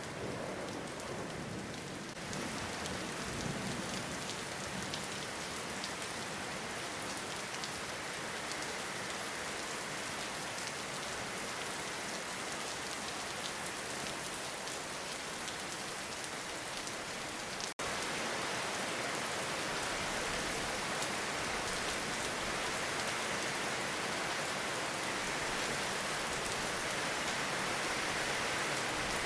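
Steady, heavy rainfall in a forest, a dense even hiss of drops on surfaces, with the tail of a thunder rumble fading out in the first second or two. About two-thirds of the way through the sound breaks off for an instant, and the rain then continues slightly louder.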